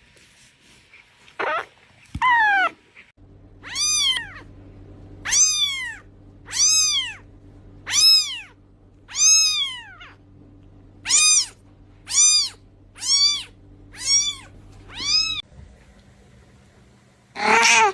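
A cat meowing over and over: a run of high meows that rise and then fall, roughly one a second, with a steady low hum underneath most of them.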